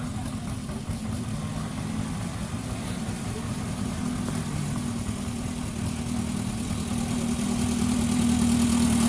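An engine running steadily, getting louder over the last couple of seconds.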